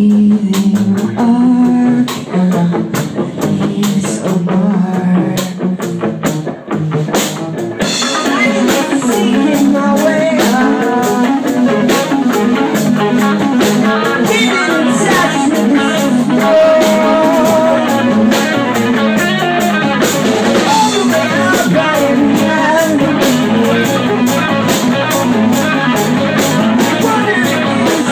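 Rock band playing with guitar and drums; the music grows fuller and steadier about eight seconds in.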